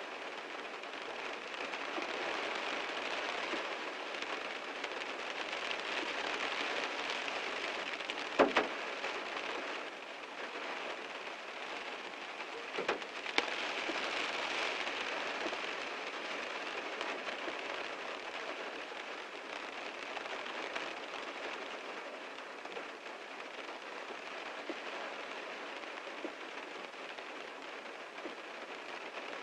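Heavy rain falling steadily on a car, with two sharp louder hits of heavy drops about eight and thirteen seconds in.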